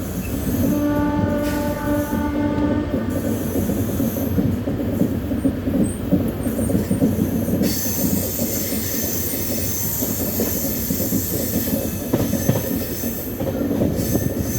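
Train running on the rails with a loud, continuous rumble and rattle of wheels. A locomotive horn sounds once, for about two seconds, near the start.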